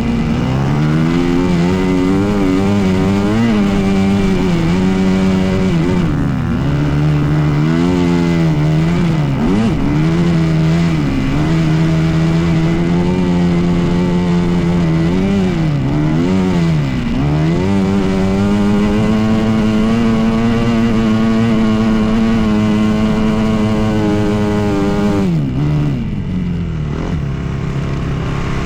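Dirt bike engine running hard, its pitch dipping and climbing again several times as the throttle is rolled off and back on. It holds a high steady note for several seconds, then drops sharply to a low idle near the end.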